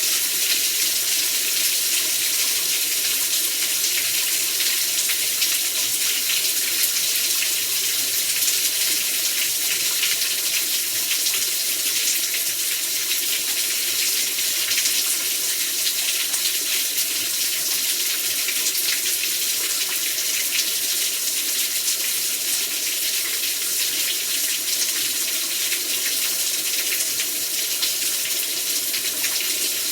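Heavy rain falling steadily: a dense, even hiss made of countless fine drop hits, holding at one level throughout.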